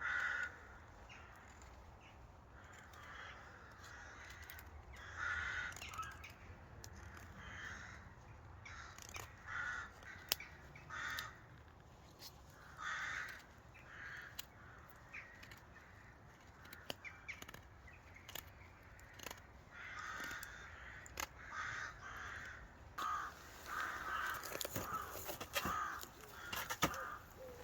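Crows cawing, many short harsh calls at irregular intervals that come thickest near the end, with a few sharp clicks among them.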